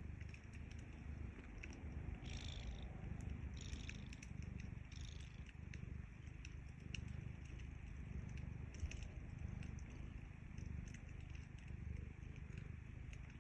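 Domestic cat purring steadily, a low pulsing rumble, with faint scattered crackles from a wood fire. Three short soft hisses come between about two and five seconds in.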